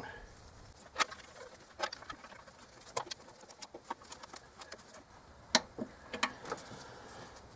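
Light, separate clicks and taps of hand tools, a second or so apart, as the throttle body bolts are torqued down.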